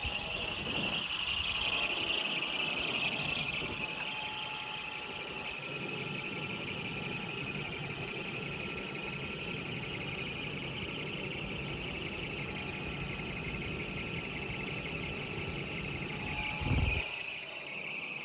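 1994 Mitsubishi Mighty Max pickup's engine idling steadily on a cold start, running with its new mass airflow sensor plugged in, a sign that the replacement sensor works. A single low thump sounds near the end.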